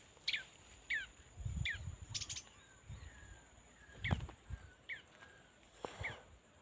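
Small bird giving short, sharp downward chirps, about six spread over a few seconds, with a few low dull bumps from handling in between.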